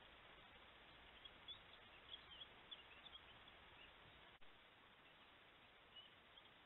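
Faint steady microphone hiss with small birds chirping faintly in the distance: a run of short high chirps in the first half and a few more near the end. A single click about four seconds in.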